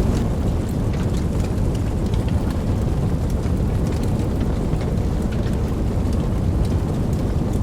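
Steady heavy rain: a dense, even patter with scattered sharp drop ticks over a deep continuous low rumble.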